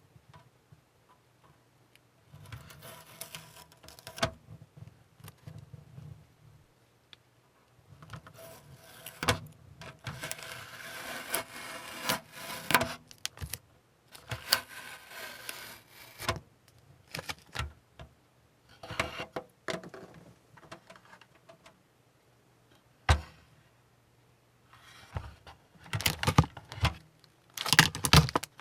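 Masking tape being peeled off a painted plastic model ship hull, in irregular rustling bursts with pauses between them, and light knocks from handling the model. There is one sharp click about 23 seconds in.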